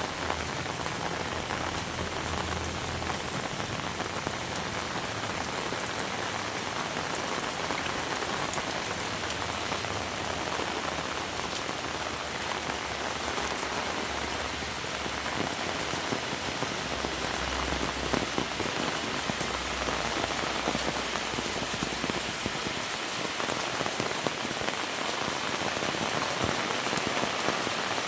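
Heavy rain falling steadily, a dense even hiss of drops on surfaces, growing slightly louder near the end. A low rumble comes and goes underneath.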